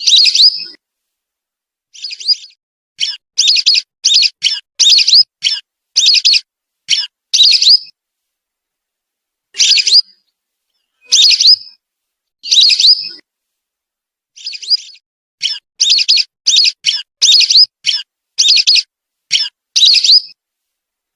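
Whistling duck (belibis) calls played as a lure recording: short, high whistled notes, some singly with gaps of a second or two, and two quick runs of about two calls a second, a few seconds in and again in the second half. There is dead silence between the calls.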